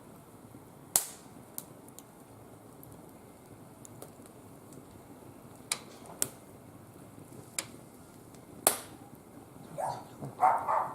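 Wood fire burning in a barbecue grill, crackling: sharp single pops every second or few over a low steady hiss. Near the end a brief louder sound rises above the fire.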